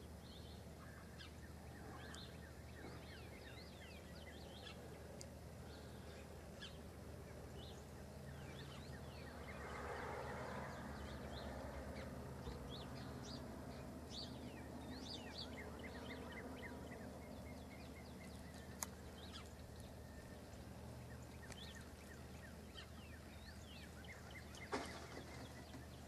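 Faint outdoor ambience with scattered short bird chirps throughout. A soft wash of noise swells for a few seconds around ten seconds in, and a sharp click sounds near the end.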